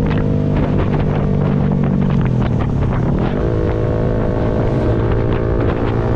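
Yamaha MT-125's single-cylinder four-stroke engine running while riding, with wind rushing over the microphone. Its note sags in pitch about two seconds in, then settles into a steady new pitch a second later.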